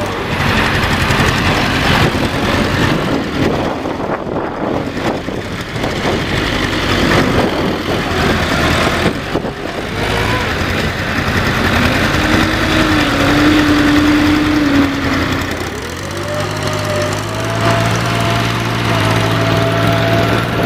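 Tractor engine running hard with rough engine noise. About twelve seconds in its pitch rises as it revs, and again from about sixteen seconds, where it holds a higher steady whine.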